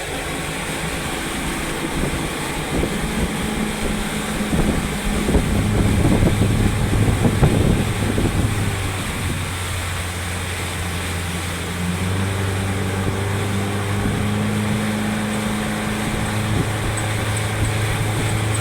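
Speedboat motor running at speed with a steady drone, under the rush of water and wind buffeting the microphone. The noise grows louder and rougher for a few seconds in the middle.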